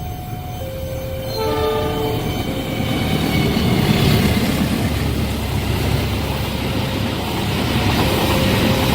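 Level-crossing warning alarm sounding two alternating tones, then a train horn blast about a second and a half in, followed by the growing rumble and wheel clatter of a train passing the crossing at speed.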